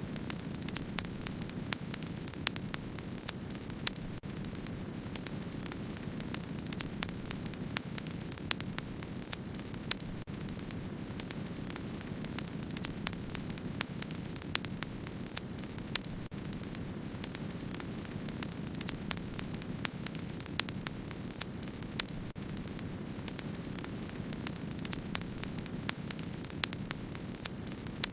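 Wood fire burning with a steady low rush, dotted with frequent, irregular small crackles and occasional sharper pops.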